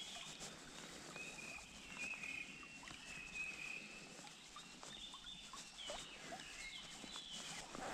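Faint bird calls: thin high notes that come and go, each held briefly, over a quiet background hiss.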